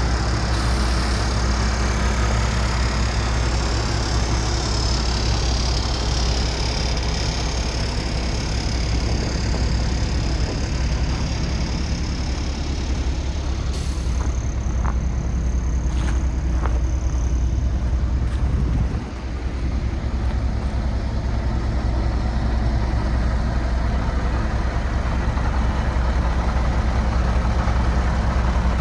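1997 International 4900 truck's diesel engine idling steadily. A high hiss runs over the first several seconds, there are a few faint clicks midway, and the level dips briefly about two-thirds through.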